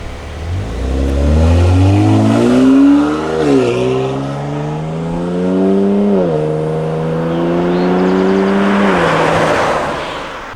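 Genesis G70 3.3T's twin-turbo V6 through an ARK GRiP catback exhaust, accelerating hard: engine pitch climbs, drops sharply at two upshifts about three seconds apart, climbs again, then falls away as the throttle eases near the end.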